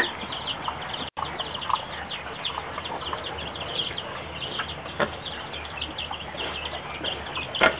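Birds chirping: a busy run of short, high chirps, several a second, with a few lower calls among them.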